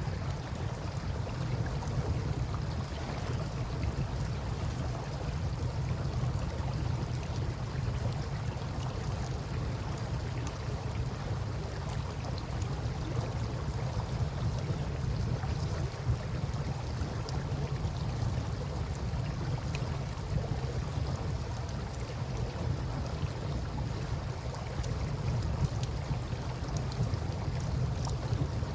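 Campfire crackling with scattered small pops over the steady rush of river water and a constant low rumble.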